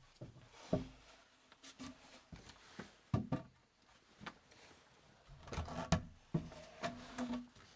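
Irregular knocks, clicks and rubbing of objects being handled, a dozen or so separate sounds with the loudest cluster about two-thirds of the way in.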